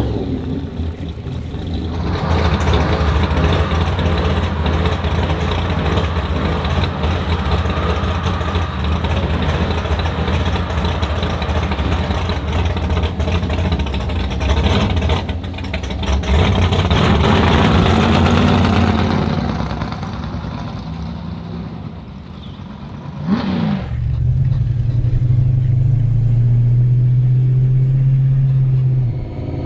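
Classic American muscle car engine running loud, swelling and then fading over several seconds. After a sharp knock about two-thirds of the way through, an engine holds one steady note until near the end.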